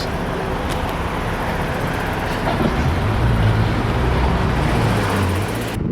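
Urban traffic noise with a vehicle passing close by, its low rumble swelling in the middle and easing off. The sound cuts off suddenly near the end.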